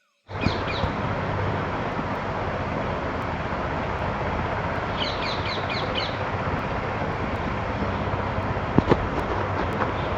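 Small birds chirping over a steady background hiss: a few high chirps just after the start and a quick run of about six chirps around the middle. A couple of short knocks near the end.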